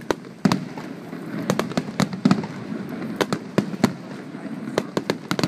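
Star mine fireworks barrage: many sharp bangs in quick, irregular succession over a low rumble, with the loudest bursts about half a second, two and a quarter, three and a quarter and four seconds in.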